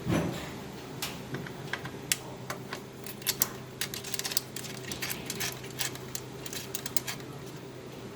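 A dull thump, then a run of irregular light clicks and taps, with a steady low hum underneath.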